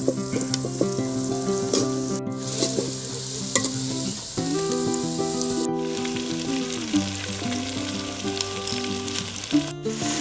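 Chicken sizzling in hot oil in a pan while being stirred, with occasional clicks of the stirring. Background music with sustained chords plays over it.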